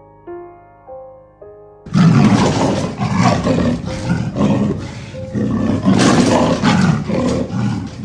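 Soft piano notes, then about two seconds in a large wild animal's loud, rough roaring call starts and goes on for about six seconds.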